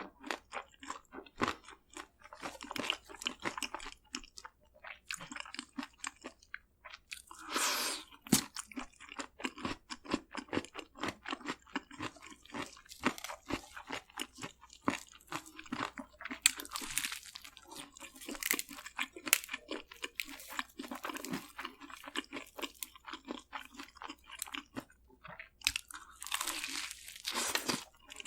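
Close-miked eating of crispy fried food: crunchy bites and chewing, a rapid, irregular crackle of crunches with a few longer, wetter chewing stretches.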